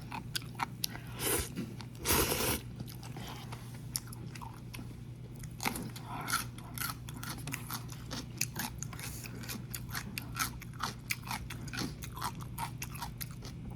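Close-up chewing of instant noodles: many small wet mouth clicks and smacks, with one louder burst about two seconds in. A faint steady hum runs underneath.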